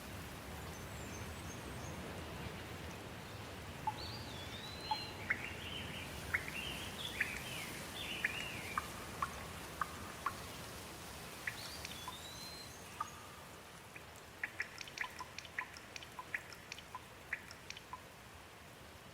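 Steady rain falling, with birds calling through it in curved, rising and falling whistled notes and chirps. Past the middle comes a quick run of sharp drips.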